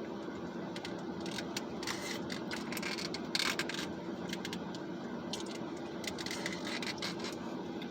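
A spoon scraping a plastic container of red beans and rice in a few short scrapes, the strongest about three and a half seconds in, over a steady low hum.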